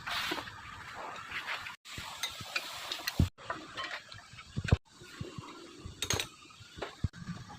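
Scattered metallic clinks and knocks of tools and parts being handled during work on a car's front brakes, with two louder knocks around the middle.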